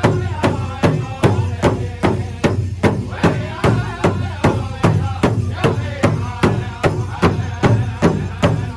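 Powwow drum group: a large shared hand drum struck in a steady, even beat while the singers sing over it.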